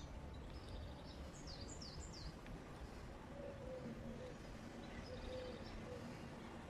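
Wild birds chirping: a run of three quick falling calls about a second and a half in, and fainter calls later, over a steady low outdoor noise.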